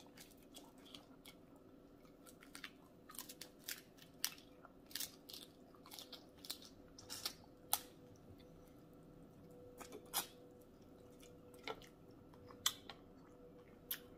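Close-miked chewing of king crab meat in thick alfredo sauce: irregular mouth clicks and smacks, some louder than others.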